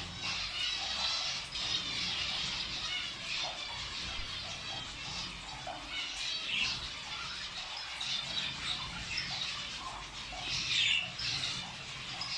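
A group of cage birds chattering, with many overlapping short, high chirps and squawks.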